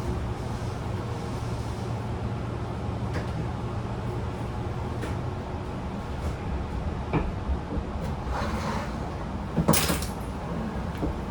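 Inside a Tobu 10000 series car standing at the terminus platform: the steady low hum of the train's onboard equipment, with scattered clicks and knocks. Just before the end comes a short, sharp burst of hiss.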